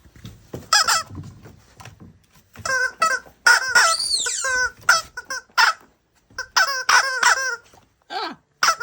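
Common raven calling: a string of short squeaky, honking calls, with one longer call about four seconds in that rises and then falls in pitch.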